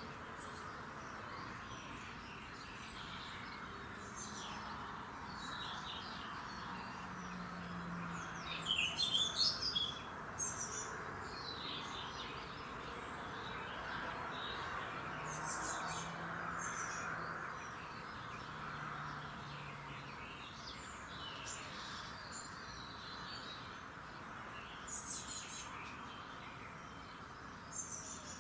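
Several songbirds chirping and singing in an early-morning chorus over a steady background hiss. The song is loudest about nine seconds in and again near the end.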